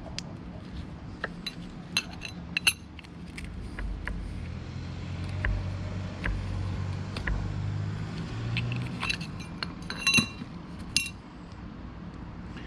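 Metal tools and parts clinking and tapping as they are handled, in two clusters of sharp clinks, one near the start and one near the end, over a low background hum.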